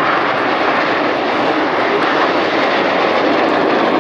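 Jet engine noise from the Red Arrows' BAE Hawk trainers flying past low during the corkscrew manoeuvre, a loud, steady rushing roar.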